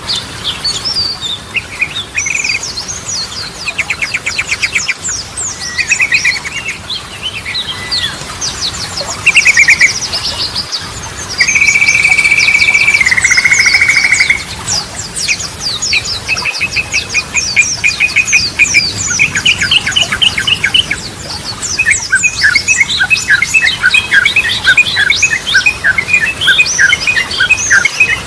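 Sooty-headed bulbul (trucukan) song: a varied run of quick chirps and trills, with a long steady whistled note about halfway through that steps down to a lower pitch before stopping, then fast repeated chattering notes near the end.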